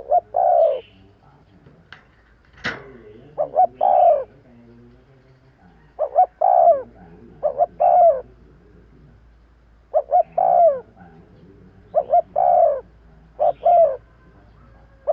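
Spotted dove cooing: repeated phrases of two or three short notes followed by a longer falling coo, about one phrase every two seconds. A single sharp click sounds near the start.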